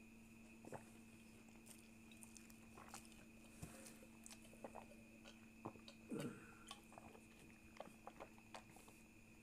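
Faint chewing and mouth sounds of people eating boiled egg, with scattered small clicks over a steady electrical hum.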